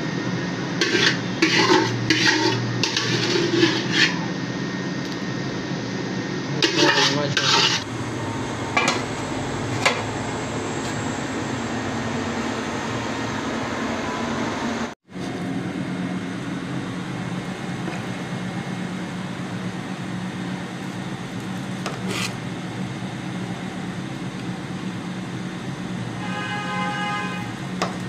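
Metal utensil scraping and clattering against a cooking pot in short bursts during the first several seconds, over a steady hum. After a sudden break about halfway through, only the steady hum remains.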